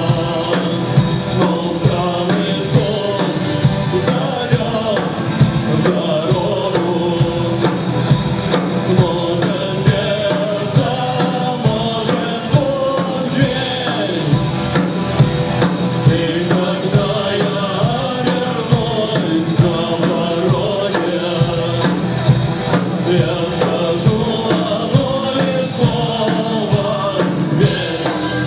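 Live rock band playing, with a drum kit keeping a steady beat under a singing voice.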